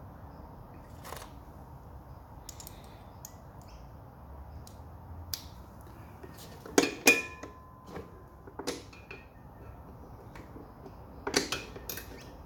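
Metal hand tools clicking and clinking as sockets are picked up and tried on a bolt, with scattered light clicks. The loudest is a pair of sharp knocks about seven seconds in with a brief metallic ring, and there is a further cluster of clinks near the end.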